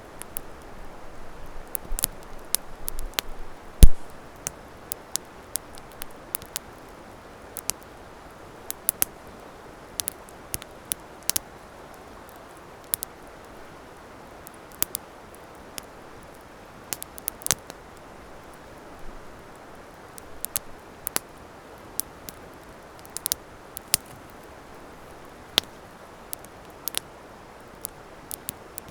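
Wood fire crackling: irregular sharp snaps and pops over a soft steady hiss, with one loud pop about four seconds in.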